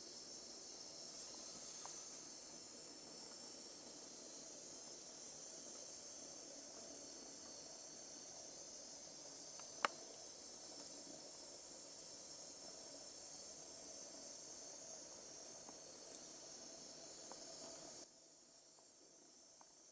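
Faint steady high-pitched hiss with one sharp click about ten seconds in; the hiss drops away near the end.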